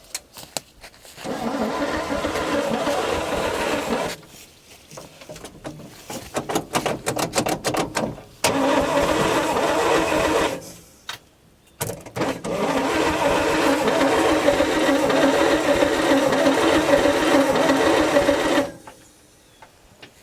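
A motor runs in three long bursts that start and stop abruptly, the last about six seconds long, with a rapid clicking between the first two.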